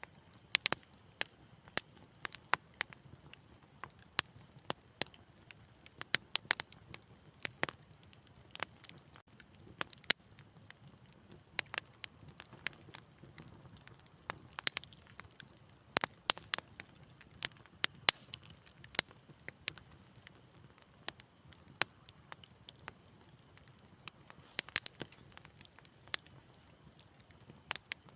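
Wood fire in a fireplace crackling: irregular sharp pops and snaps, several a second at times, over a soft low rumble.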